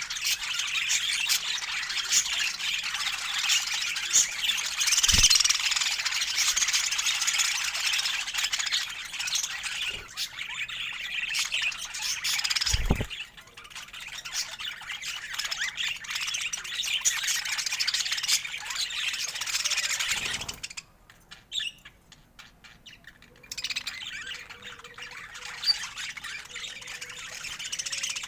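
Budgerigars chattering and warbling in a dense, busy stream of chirps and squawks, with a couple of brief low thumps. The chatter breaks off for about three seconds late on, then resumes more quietly.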